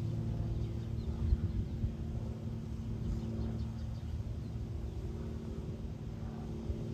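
A steady engine drone holding one even pitch, over a low rumble.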